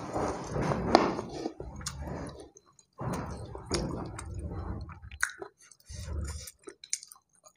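Close-miked chewing of a mouthful of rice and chicken gizzards, in three bouts with short pauses, with small wet mouth clicks.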